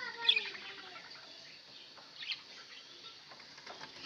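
Budgerigars chirping: a sharp chirp just after the start and another about two seconds in, over faint scattered chatter and small ticks.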